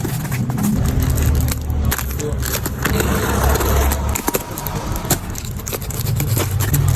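Packaging being handled, with scattered clicks and crinkling, over a low rumble that is strongest from about one to four seconds in.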